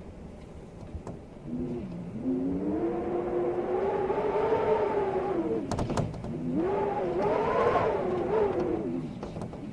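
Storm wind howling in gusts: a pitched moan that swells, rises and falls in pitch twice, then fades near the end, over a noisy rush of wind. A few sharp clicks come in the middle, between the two gusts.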